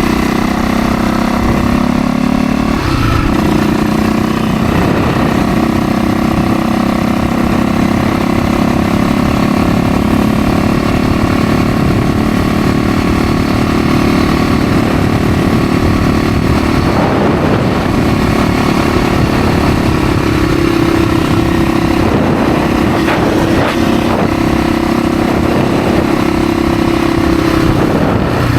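Dirt bike engine running while the bike is ridden along a road, mostly at a steady speed, its pitch shifting about three seconds in and again about twenty seconds in.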